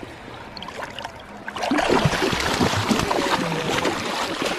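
Water splashing and sloshing in a shallow creek as a hooked brown trout thrashes during the fight, much louder from about two seconds in.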